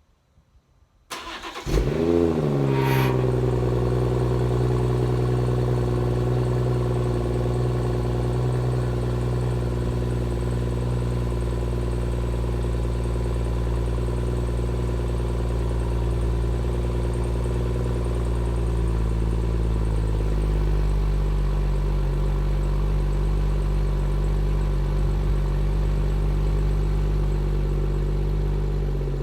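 2016 BMW 340i's turbocharged 3.0-litre inline-six cold-starting with the exhaust valve open: a brief crank about a second in, a quick rev flare as it catches, then a steady high cold idle that settles slightly lower about twenty seconds in.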